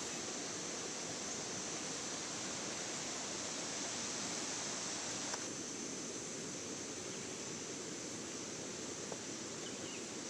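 Steady outdoor background hiss with an even high-pitched band and no voices. About five seconds in there is a click, after which the sound turns duller, and a faint tick follows near the end.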